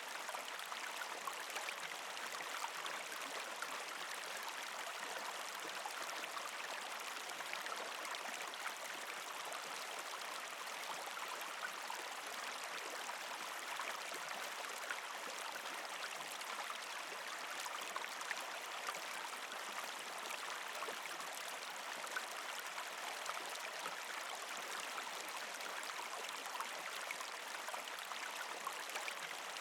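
Creek water flowing and gurgling over rocks around ice, a steady rushing with fine trickling splashes.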